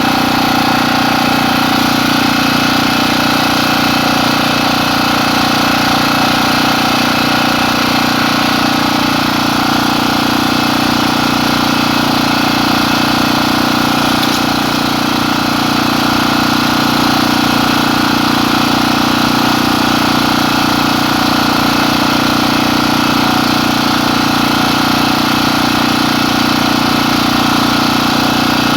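An engine running steadily: a constant, unchanging drone.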